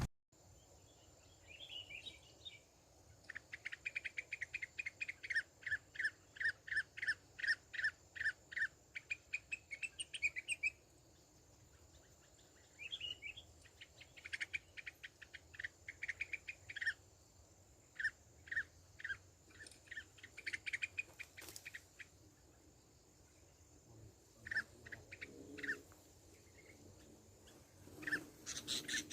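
Sooty-headed bulbul calling: runs of quick, repeated chirping notes, about two or three a second, in bursts of a few seconds separated by short pauses.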